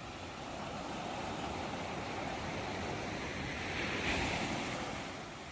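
Ocean waves breaking on the shore: a steady wash of surf that builds to a crest about four seconds in and then recedes.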